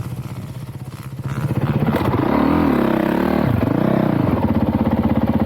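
Dirt bike engines revving up and down during a close wheelie pass, getting louder about a second and a half in.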